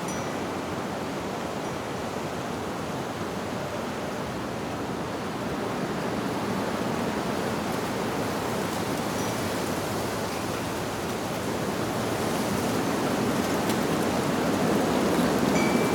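Wind rushing through leaves in a steady hiss that swells toward the end, with a few faint tinkles of wind chimes.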